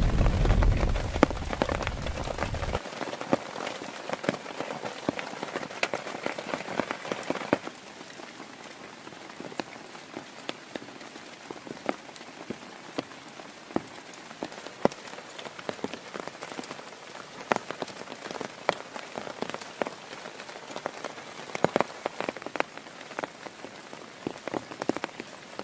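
Rain falling steadily, with many distinct drops striking a surface. A low rumble of thunder dies away in the first three seconds, and the rain thins to quieter, scattered drips about seven seconds in.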